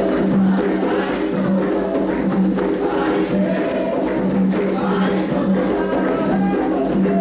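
Candomblé ritual music: atabaque hand drums playing with a group of voices singing a chant, steady and continuous.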